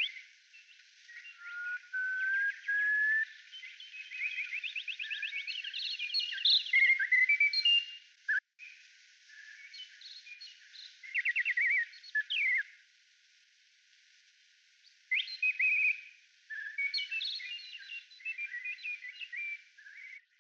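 Birds singing: bouts of rapid trills, chirps and whistled notes with short pauses between them. The sound is thin, with nothing below the mid-range, and it cuts out for a moment near the middle.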